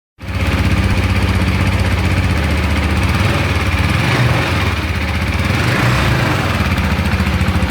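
KTM Duke 250's single-cylinder engine idling steadily, its exhaust giving an even, fast pulsing beat.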